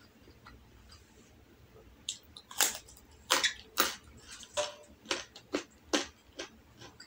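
Close-up chewing of raw carrot: quiet for about two seconds, then a run of about eight sharp, crisp crunches spread over the next few seconds.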